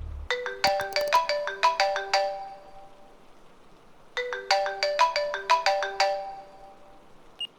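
Mobile phone ringtone for an incoming call: a quick melody of bell-like notes played twice, each phrase about two seconds long, with a pause of about two seconds between.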